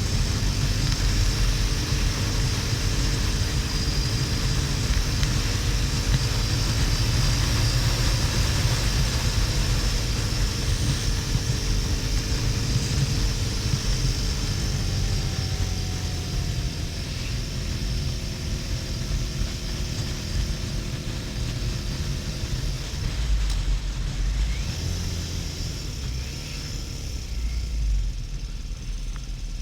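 Harley-Davidson XL1200N's 1200 cc V-twin running steadily under way, with wind rushing over the helmet-cam microphone. The engine note drifts slowly and the whole sound gets a little quieter about halfway through.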